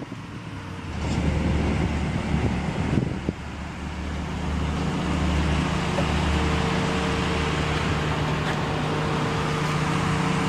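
A car engine running steadily at idle, a low even hum with a faint higher tone, over outdoor traffic noise that swells in the first few seconds.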